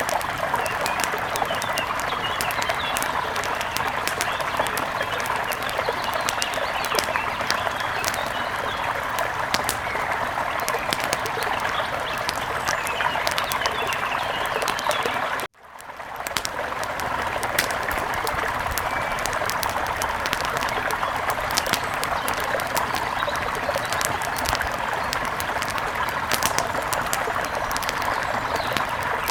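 Steady rush of a mountain river with scattered crackling pops from an outdoor wood fire. The sound cuts out abruptly for a moment about halfway through and fades back in.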